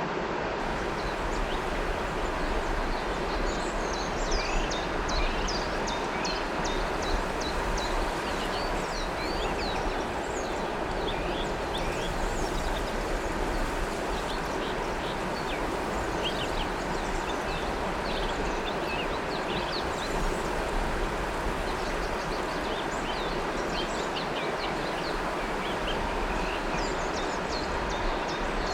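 River water flowing with a steady rush, and small birds chirping over it in short, quick calls scattered throughout.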